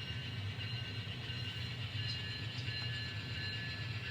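N scale model train locomotive running on the layout: a steady low hum with faint high whining tones.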